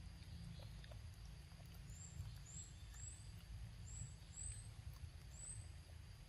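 Quiet outdoor ambience: a steady low rumble under a small bird's thin, high chirps, about six short ones in a row through the middle.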